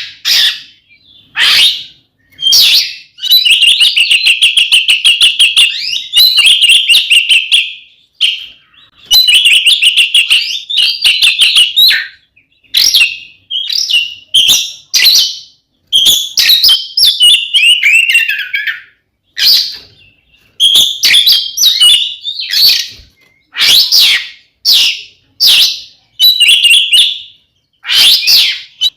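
Oriental magpie-robin (kacer) singing loudly in its fierce 'fighting' style, the kind of song used to provoke other magpie-robins. Long runs of rapid chattering trills alternate with short, sharp single notes and brief pauses.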